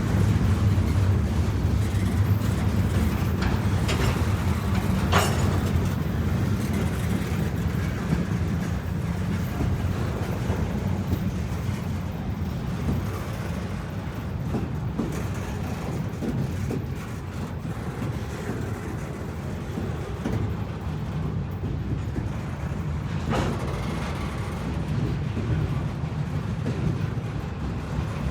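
Freight train cars rolling past on the track with a steady low rumble. A few sharp clanks from the wheels and cars stand out, two of them close together in the first few seconds and one more late on.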